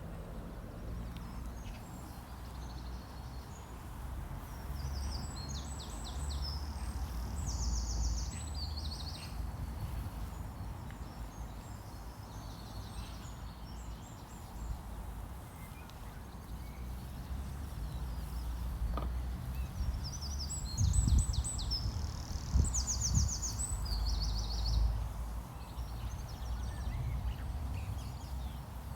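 A songbird singing a short phrase of high trilled notes, heard twice about fifteen seconds apart, over a steady low outdoor rumble. A few louder low bumps come about two-thirds of the way through.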